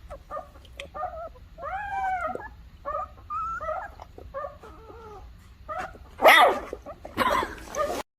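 A dog whining in a run of short, high, rising-and-falling calls, then giving two louder, harsher barks near the end.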